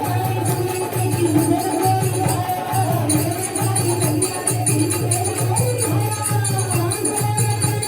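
Hindu devotional bhajan sung kirtan-style: a melodic vocal line over a steady hand-drum beat and continuous rhythmic jingling percussion.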